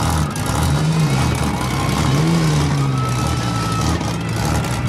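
Demolition derby car engines running and revving in the ring, their pitch rising and falling.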